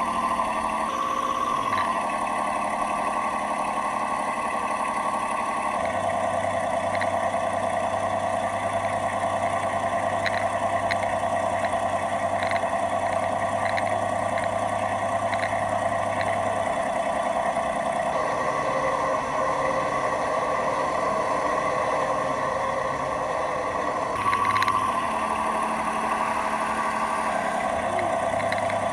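Simulated diesel engine sound from the onboard sound unit of a 1/12 scale Tyne class lifeboat model. It runs steadily but jumps abruptly to a different pitch every few seconds. The sound is erratic because the speed controller it is linked to is failing.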